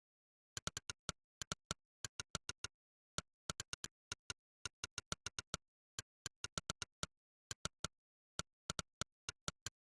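Monkeytype's 'click' keystroke sound effect, one short synthetic click per key pressed while typing, in irregular bursts of several clicks a second with brief pauses. There is dead silence between the clicks.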